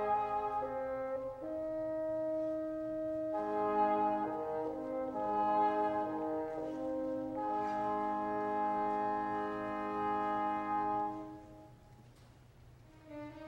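Orchestral ballet music: the brass, led by French horns, plays slow held chords that change every second or two. It breaks off near the end, leaving a short quiet gap before soft strings come in.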